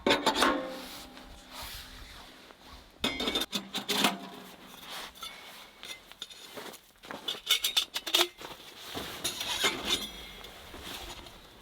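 Metal clanking and clinking as a wood-burning stove and its metal parts are handled and set in place, a few knocks at a time with brief ringing after them.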